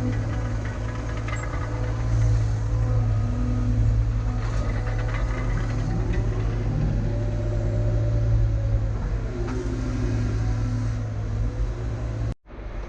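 CAT excavator's diesel engine running steadily under load, with its hydraulics whining as the boom and bucket move dirt. The sound cuts out for a split second near the end.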